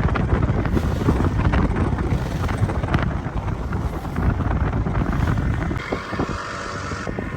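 Wind buffeting the microphone aboard a small boat under way, with a dense, fluttering low rumble of wind and water; from about six seconds in the rumble eases and a faint steady higher hum comes in.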